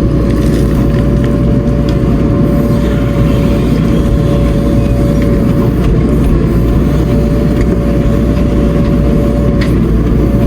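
Heavy diesel machinery running steadily, a deep rumble with a steady whine on top that wavers slightly in pitch.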